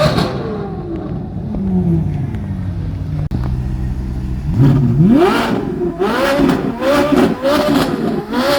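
Car engine revving: the revs fall away slowly over the first few seconds and settle to a low idle, then a sharp rev a little past halfway is followed by a series of quick throttle blips.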